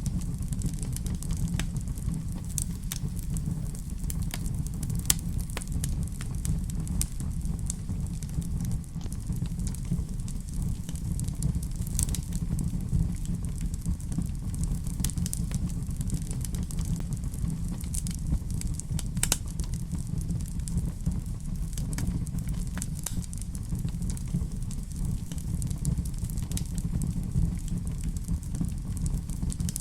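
Wood fire crackling in a fireplace: a steady low rumble of flame with scattered sharp pops and snaps.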